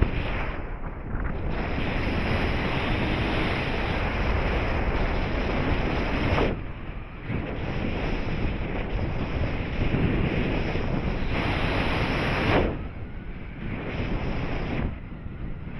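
Airflow rushing over the microphone of a paraglider pilot in flight: loud, gusty wind noise that eases off briefly twice.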